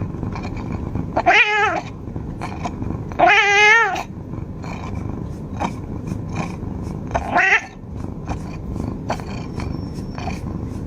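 A domestic cat meowing three times: a short call, then a longer, louder one with a wavering pitch, then a brief call near the end.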